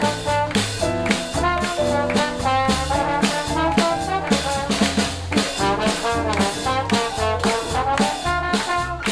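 A live jazz band with brass horns and drum kit playing a swing tune at a steady beat.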